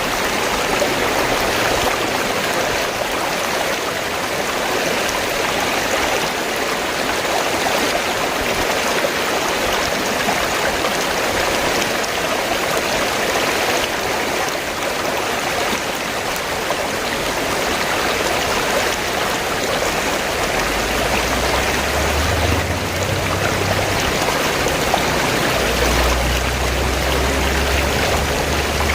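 River water flowing steadily, a continuous even wash with no breaks. A low rumble comes and goes underneath in the last third.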